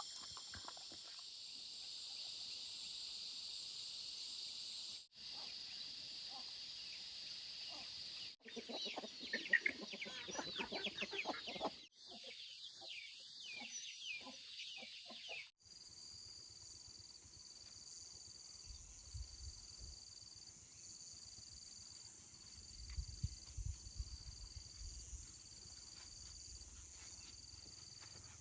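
Chickens clucking, quick short calls in a cluster from about a third of the way in, over a steady high-pitched buzz; after a cut about halfway through, a high chirp repeats about once a second.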